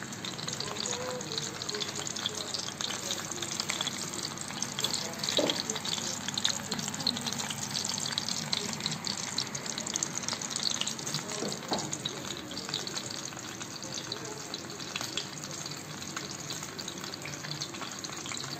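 Food cooking in hot fat in a metal kazan: a steady sizzle with dense crackling.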